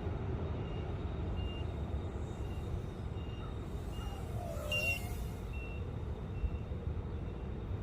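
Low-battery warning alarm beeping: short high beeps a little under once a second over a steady low rumble, the sign of a worn-out LiPo pack sagging under load, which the pilot judges shot. A brief wavering whine passes about five seconds in.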